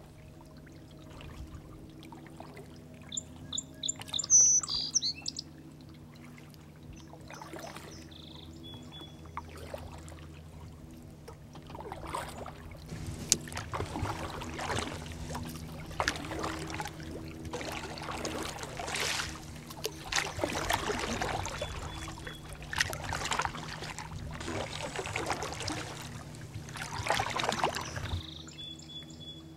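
Birds chirp a few times about four seconds in. From about twelve seconds on comes a run of water splashes, one every second or two.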